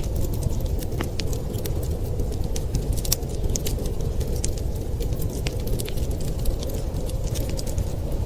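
Wood fire crackling in a fireplace, with many scattered sharp snaps and pops over a steady low rumble of wind.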